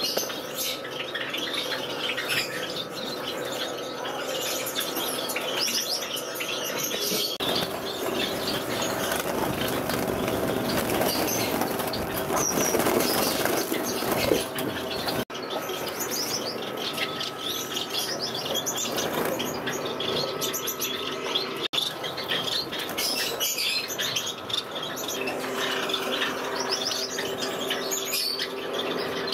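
A flock of caged finches chirping over one another without pause, with wings fluttering, broken by a few abrupt cuts.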